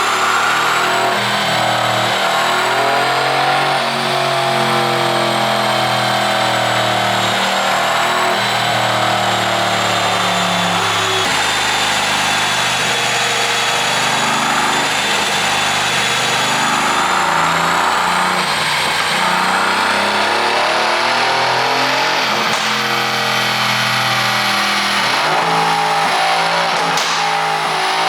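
Mercedes-AMG C63's twin-turbo V8 running under way, its engine note holding steady and then changing pitch in steps as the revs rise and fall. A few short, sharp cracks near the end, typical of the exhaust pops from its pop-and-bang ECU tune.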